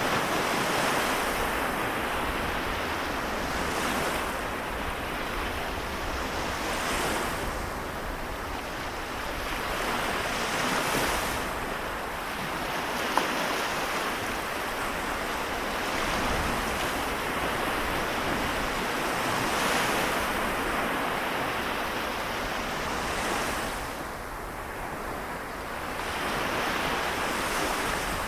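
Small waves of the Seto Inland Sea washing onto the shore, coming in every few seconds over a steady hiss of water, with a single faint click about halfway through.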